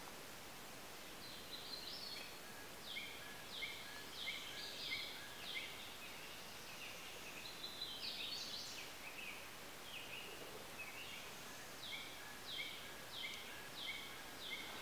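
A bird singing a series of short, clear notes that each slide downward, repeated about one and a half times a second in two runs with a pause of a couple of seconds between, over a faint steady hiss of woodland background.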